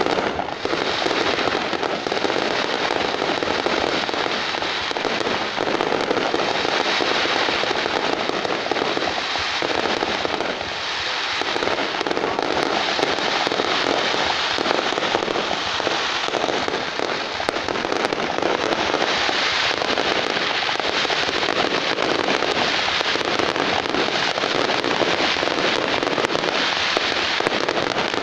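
Fireworks going off in a dense, continuous barrage of crackling pops, with no let-up.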